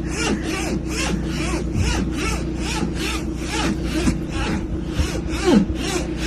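Rhythmic rasping strokes, about four a second, like sawing or scraping, over a steady low hum, with short rising-and-falling squeaky sounds in between.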